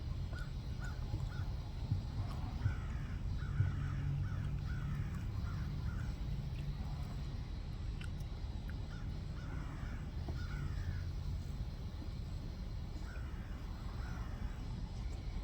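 Birds calling: short, repeated calls in several runs, over a steady low rumble.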